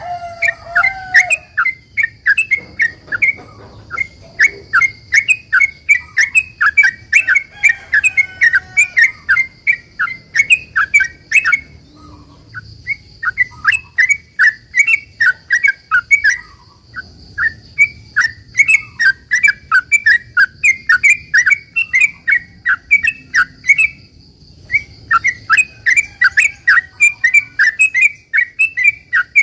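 Yellow-vented bulbul (trucukan) singing a long rapid-fire 'ropel' song: runs of quick repeated chirping notes, about three or four a second, broken by a few short pauses.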